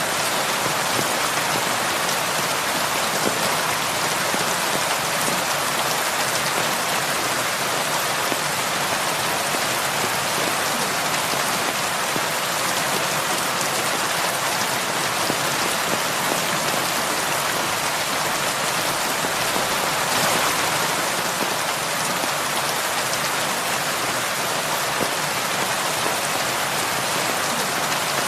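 Heavy rain falling steadily, a dense even hiss of drops on a surface with fine scattered patters.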